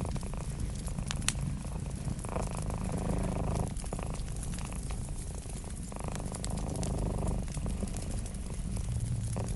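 A domestic cat purring steadily in a low rumble, the purr swelling about every three and a half seconds. Small sharp pops from a crackling wood fire sound over it.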